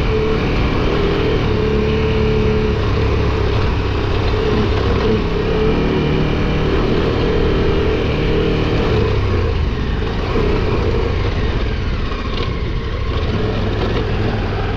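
KTM 1290 Super Adventure R's V-twin engine running steadily, a continuous low rumble that eases slightly in the last few seconds.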